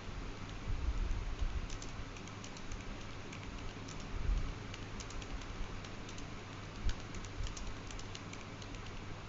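A run of quick, irregular light clicks, typing-like, over a steady low hum.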